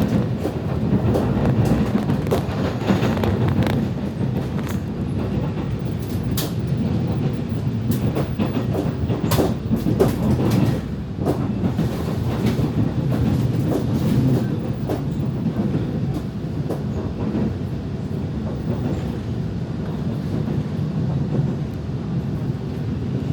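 Train running on the rails: a steady low rumble with irregular clicks and knocks, most of them in the first half.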